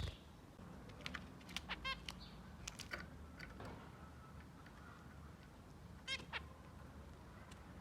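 Zebra finches giving a few short calls, the clearest near 2 s and 6 s, with scattered small clicks between them.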